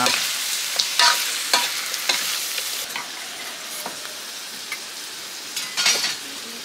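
Chicken pieces frying in curry paste and oil in a hot wok, sizzling steadily while being stirred, with sharp scrapes and knocks against the pan about once a second. The sizzle eases off a little toward the end.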